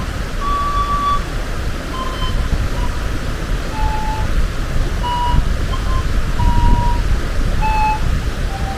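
Pan flute playing a slow run of short, steady notes, over the constant rush of a waterfall.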